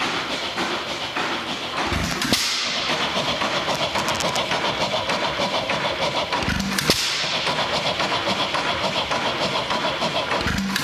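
1915 Rawleigh-Schryer 4 hp hit-and-miss engine running unloaded: it fires with a sharp bang about every four seconds, three times, and coasts between firings with a steady rhythmic clatter. Firing only now and then is how the governor holds its speed with no load.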